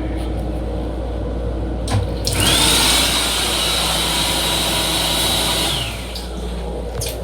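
Vacuum toilet of an M7 railcar flushing. After a click, a loud rushing hiss with a steady high whine runs for about three and a half seconds and then stops, over the steady low hum of the car.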